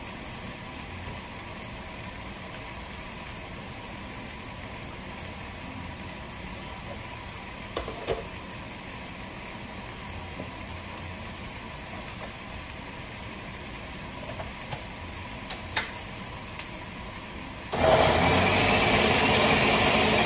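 A faint steady sizzle from the cooking pot with a few light knocks, then about 18 seconds in an electric blender starts up and runs loud, blending chunks of onion, bell pepper, celery, garlic and ginger in chicken stock.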